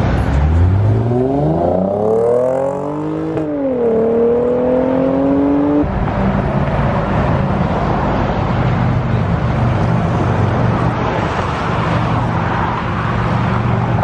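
A performance car accelerating hard: the engine's pitch climbs steeply, drops briefly at an upshift about three and a half seconds in, climbs again, then gives way to a steady loud rush of engine and road noise.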